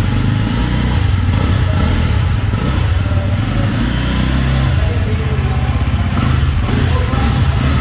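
Jawa 42's single-cylinder engine running steadily, its exhaust note heard up close.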